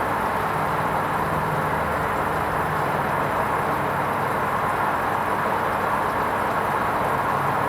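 Hoover Vision HVP16 washing machine running steadily during its wool rinse programme: an even rushing noise with a faint low hum that comes and goes.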